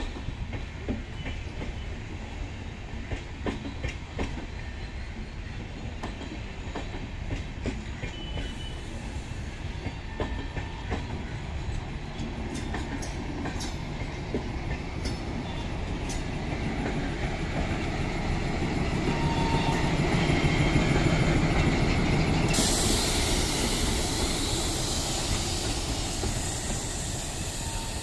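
Railway passenger coaches rolling slowly past, their wheels clicking over rail joints. From about two-thirds of the way through, a diesel locomotive's engine grows louder as it approaches. Near the end a loud hiss starts suddenly and keeps going.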